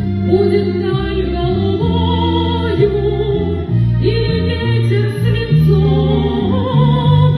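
A song performed with singing voices held in long notes with vibrato over a steady instrumental accompaniment with a moving bass line.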